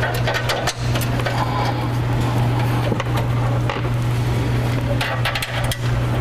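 Scattered metal clinks and knocks of bolts and hand tools being worked on a steel bumper, a cluster of them about five seconds in, over a steady low hum.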